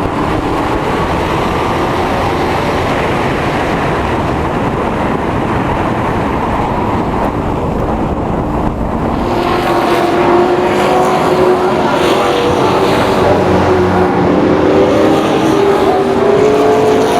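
Race trucks' engines running at speed on a short oval track, a pack of them passing. About halfway through, the engine notes stand out more clearly and rise and fall as the trucks go by.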